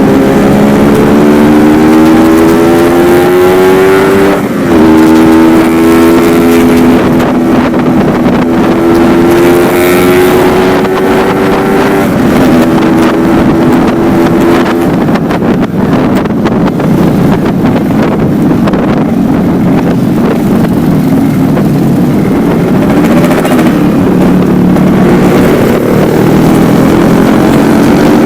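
Yamaha RX-King two-stroke single-cylinder motorcycle running on the road through an exhaust with the stock silencer and only its baffle filter fitted. The engine note climbs, drops at a gear change about four and a half seconds in, climbs again, then holds steadier, with wind on the microphone.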